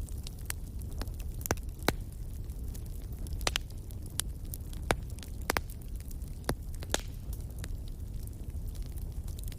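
Wood fire burning in a fireplace: a low steady rumble of the flames with irregular sharp crackles and pops, thicker in the first half.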